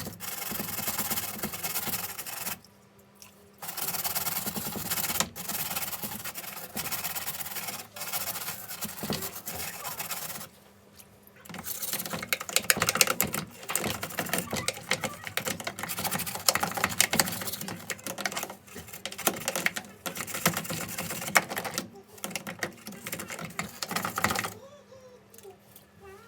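Scratchy rubbing or scrubbing noise in long stretches, pausing briefly about three seconds in and again about ten seconds in, and stopping near the end.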